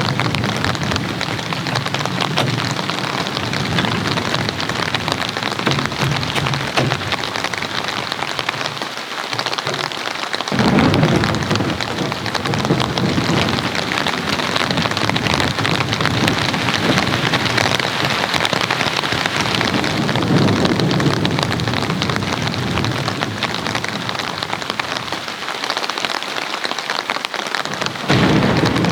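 Heavy rain falling steadily, with low rumbling thunder through much of it, coming in sharply about ten seconds in.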